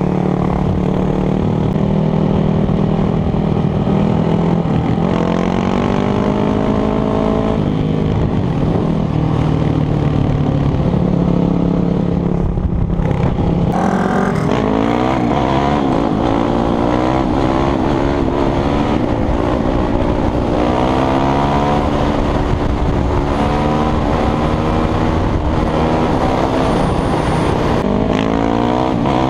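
Motorcycle engine running under way, its pitch holding steady for the first half, then climbing and falling repeatedly after about the middle as the rider revs up and shifts.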